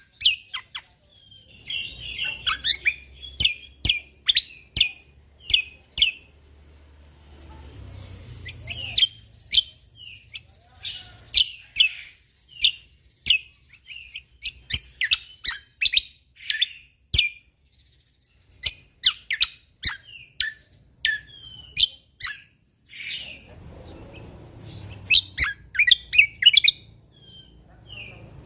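Cucak kombo (kecial kombok) songbird singing a rapid, varied series of sharp whistled notes and chips, pausing briefly a little past the middle.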